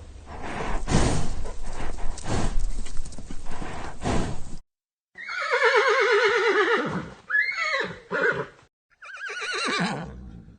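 Horse hoofbeats for about four and a half seconds. After a short break, a horse neighs: a long whinny with a quavering, falling pitch, then a shorter call, then another quavering whinny near the end.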